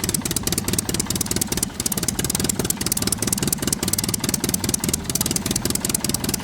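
A vehicle engine running with a fast, even chugging at a steady level.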